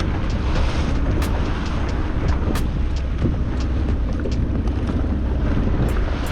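A small boat's motor running steadily, with wind buffeting the microphone in a low, continuous rumble.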